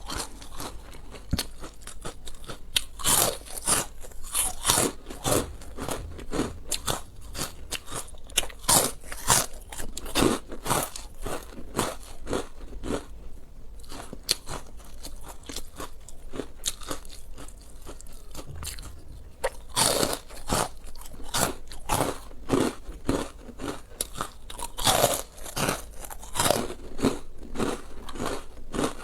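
Close-miked eating: a person biting, chewing and crunching food in irregular, clicky bursts.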